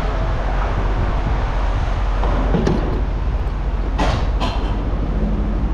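A vehicle engine running with a steady low rumble. A few short sharp metal clanks come through, one about two and a half seconds in and two about four seconds in.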